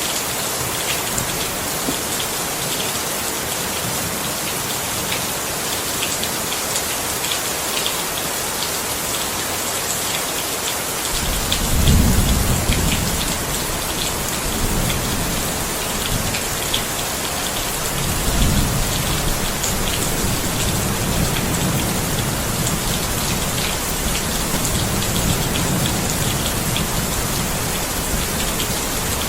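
Steady heavy rain falling, with thunder rolling in suddenly about a third of the way through: a deep rumble that swells twice and keeps grumbling on under the rain.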